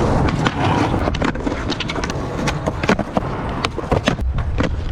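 Skateboard rolling, its wheels rumbling steadily, with many sharp clacks and knocks from the board throughout.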